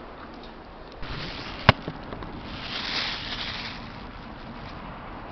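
Typhoon wind blowing in gusts, swelling to a hissing peak about three seconds in and then easing off, with one sharp knock a little before the peak.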